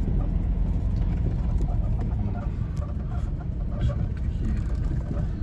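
Car driving slowly along a forest dirt road: a steady low rumble of engine and road noise.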